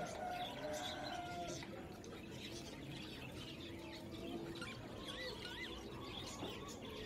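Birds chirping and twittering in the background, with two short rising-and-falling whistles about five seconds in.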